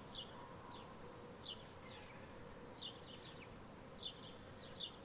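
Faint steady buzz of honeybees flying around their hive, with short, high, falling chirps repeating irregularly over it.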